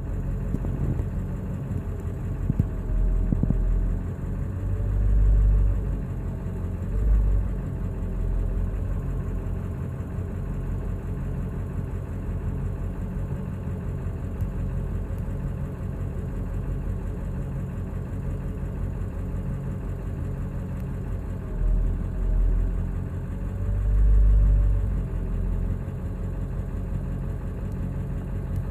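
A 2000 7.3-litre Power Stroke V8 turbodiesel idling roughly, with uneven low surges a few seconds in and again about two-thirds of the way through. This is a rough idle that a new ICP sensor, a swapped IDM, an oil change and a new fuel filter have not cured.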